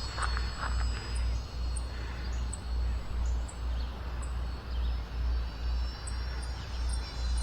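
Wind buffeting the microphone: a low, gusting rumble that swells and drops every second or so.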